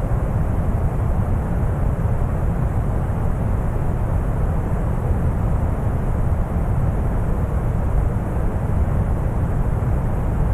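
Deep brown noise: a steady, unchanging rumbling hiss, heaviest in the bass and fading toward the treble.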